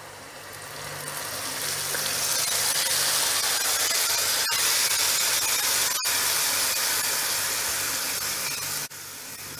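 Spiced yoghurt mixture sizzling as it is poured into hot oil in a pot and stirred with a wooden spatula: a steady frying hiss that builds over the first two seconds. The hiss drops suddenly near the end.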